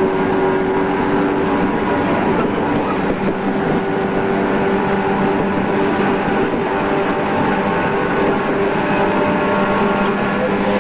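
JR East 113 series electric train running at steady speed, the whine of its MT54 traction motors holding an even pitch over the noise of the wheels on the rails.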